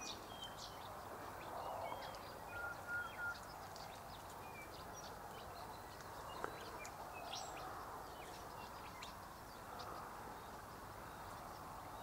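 Faint chirps and short calls of birds, including three brief even-pitched notes about two and a half seconds in, over steady faint outdoor background noise. A single soft click comes about six and a half seconds in.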